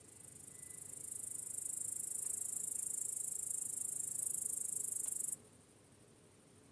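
Crickets chirping in a high, fast continuous trill that swells up over the first couple of seconds and cuts off suddenly about five seconds in, leaving a faint low background hiss.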